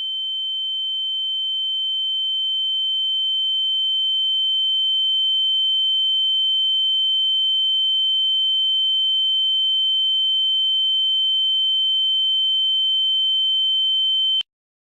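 A steady high-pitched electronic tone with a fainter lower tone beneath it, slowly swelling in loudness over the first several seconds, then cutting off suddenly near the end.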